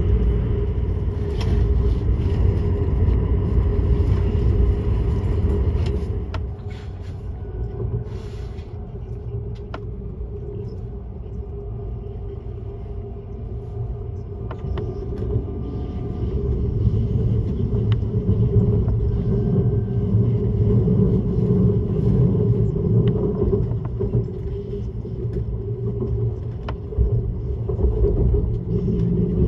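ICE high-speed train running, heard from inside a passenger car: a steady rolling rumble with a low drone. It eases off about six seconds in and builds back up after about ten seconds, with a few faint clicks.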